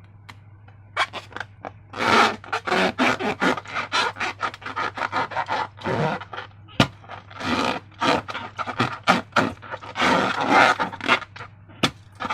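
Slime squished and kneaded by hand: a dense, irregular run of sticky clicks, crackles and squelches, starting about a second in.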